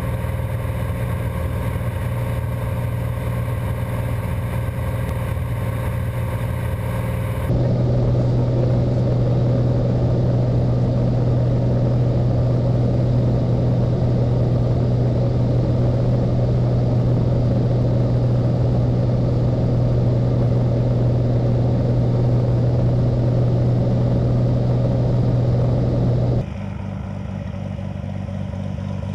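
Aircraft engine running at a steady drone. The sound steps suddenly louder about seven seconds in and suddenly quieter near the end.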